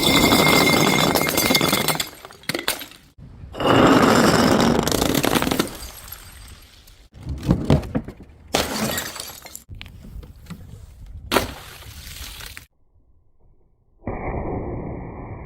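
Glass bottles smashing, several breaks in a row with the crunch and tinkle of shards. Near the end, after a short pause, a different, duller noise starts.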